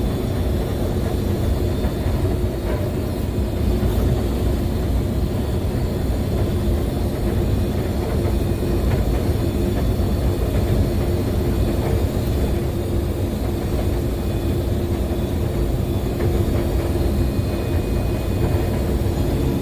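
Combine harvester running steadily while cutting soybeans: an even, unbroken machine hum with strong low rumble.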